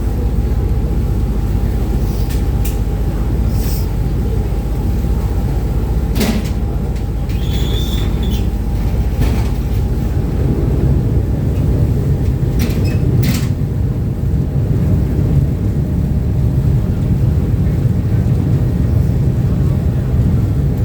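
Uber Boat riverboat's engines and water-jet drives running, a loud steady low rumble heard from the open stern deck, with a few sharp knocks or clicks scattered through it.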